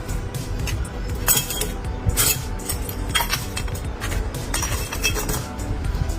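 Metal clinking and tapping, a string of short knocks at irregular intervals, over steady background music.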